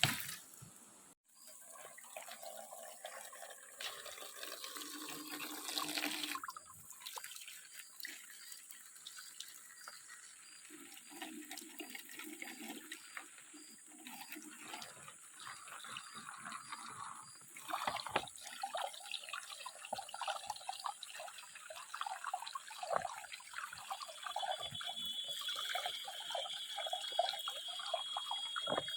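Shallow river water running and splashing, uneven and broken by a few sudden cuts.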